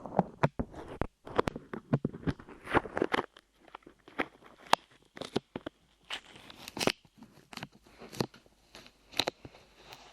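Light clay pressed and pulled on the microphone's ears, making irregular sticky crackles and pops. They come thick for the first three seconds or so, then thin out to scattered clicks.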